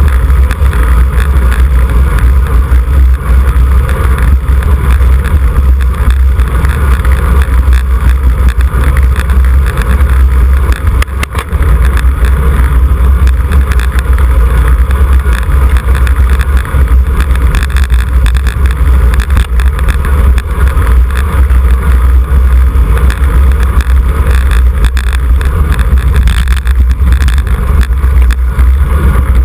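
Wind buffeting the microphone of a camera riding on a racing bicycle at speed: a loud, steady low rumble with hiss, dipping briefly about eleven seconds in.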